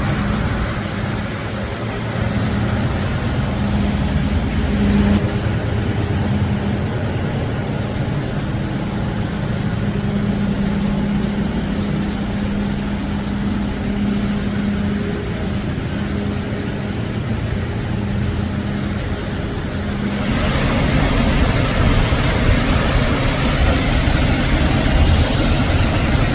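A vehicle engine idling steadily, a low hum holding one pitch. About twenty seconds in, a louder, even hiss joins it.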